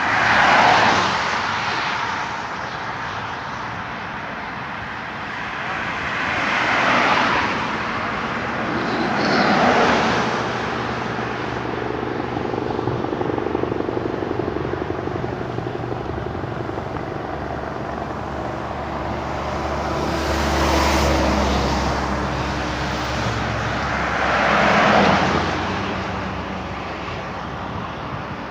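Road traffic: vehicles pass one after another, each a whoosh that rises and fades, about five times. A low engine hum swells about two-thirds of the way through.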